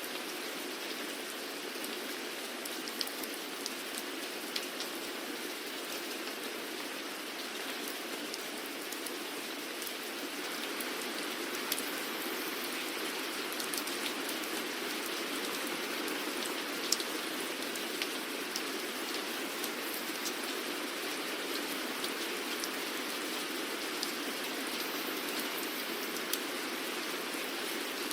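Steady rain falling on a surface, an even hiss with scattered sharper drop ticks; it grows a little louder about ten seconds in.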